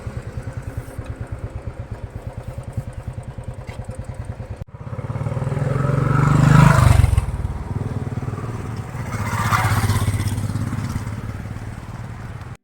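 Royal Enfield motorcycle engine with an even, rapid pulse of exhaust beats at first. After a sudden cut, it speeds up twice, the engine and road noise swelling and then easing off.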